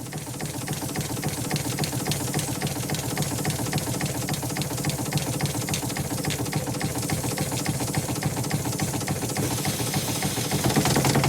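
Engine running steadily with a fast, even ticking rhythm over a low hum. It swells up over the first second and gets a little louder near the end.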